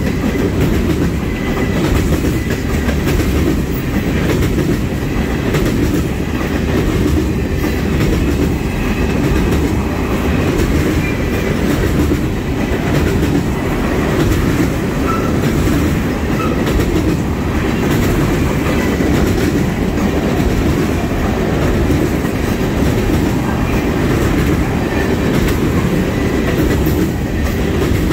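Freight oil train's tank cars rolling steadily past close by: a continuous rumble and clatter of steel wheels on the rails.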